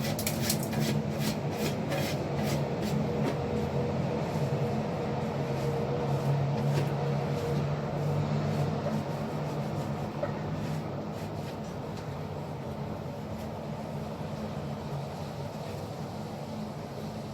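Plastic crinkling and rustling as it is handled, dense for the first few seconds and then sparser, over a steady low hum.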